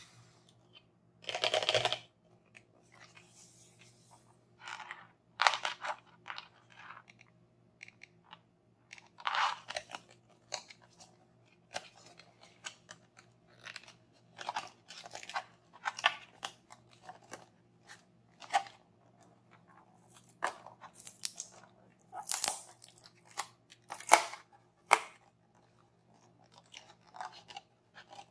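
Hands handling dinosaur surprise toys and their packaging: irregular short crunches and crinkles, with quiet gaps between them, the loudest about a second and a half in and again near the end.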